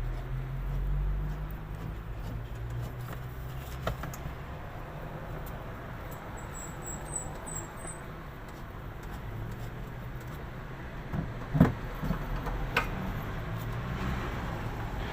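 Scattered metallic clicks and knocks of a nut and tools being handled while a washing machine spin dryer's mounting nut is fitted, with the sharpest knock about three-quarters of the way through. A steady low rumble underlies it.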